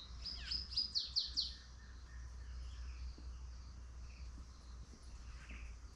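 Birds chirping: a quick run of about eight high chirps in the first second and a half, then fainter scattered calls, over a steady low hum.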